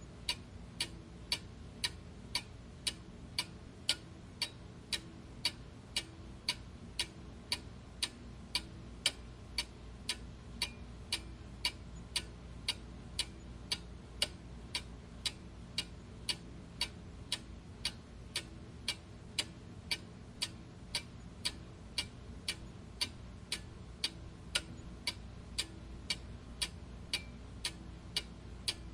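Clock ticking steadily with an even, regular beat, over a faint low background hum.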